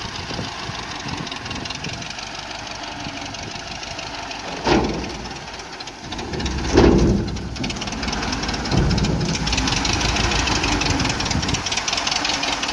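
1924 Ford Model T's four-cylinder engine running as the car is driven up the ramps onto a flatbed trailer. A sharp knock comes a bit under five seconds in and a heavier thump near seven seconds as the wheels meet the ramps. After that the engine sounds louder as it pulls up onto the deck.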